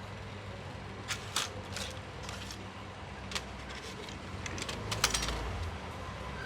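Irregular light clicks and taps of small metal parts and tools being handled, a few single ones and then a quick cluster about five seconds in, over a steady low hum.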